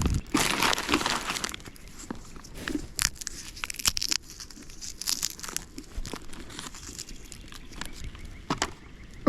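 Irregular crinkling and crunching of a plastic snack bag being handled, with short sharp crackles.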